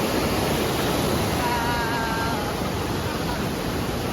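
Steady rushing noise of river water and wind, heard while crossing over the river in a cable car basket.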